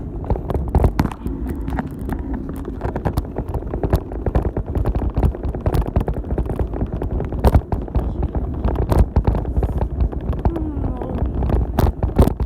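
Old bicycle rattling as it is ridden, heard through a phone mounted on its handlebars: a constant low rumble with irregular clicks and knocks throughout.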